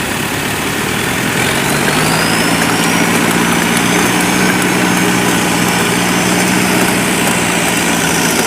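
Small diesel farm tractor engine running under load in mud, revving up about a second and a half in and holding at the higher speed, with a faint whine rising with it.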